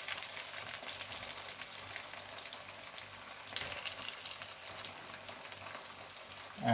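Onion, tinned tuna and fresh tomato wedges frying in oil in a wok: a steady soft sizzle with fine crackling.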